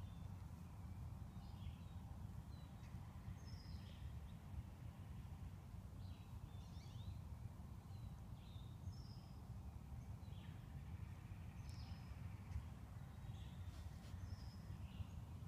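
Small birds chirping, short high calls about once a second, over a steady low background rumble.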